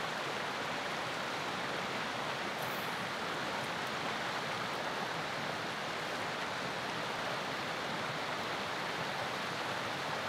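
Steady rush of creek water pouring over a small runoff.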